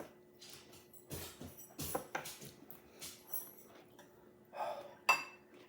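Eating sounds close to the microphone: scattered chewing and mouth noises with a few light clinks of cutlery against dishes, the sharpest about five seconds in.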